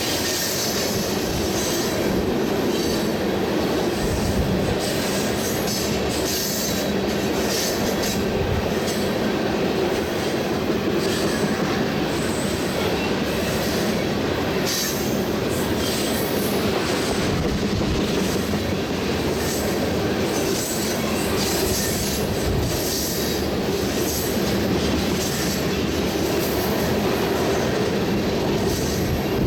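A freight train of loaded crude-oil tank cars rolling past steadily, its steel wheels rumbling and clacking over the rail joints.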